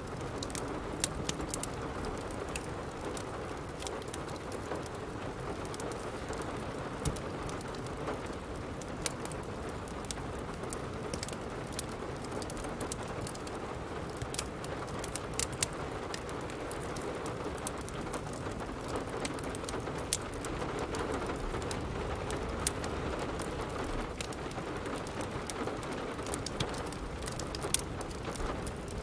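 Steady rain with a wood fire crackling, its sharp pops and snaps scattered irregularly over the even hiss of the rain.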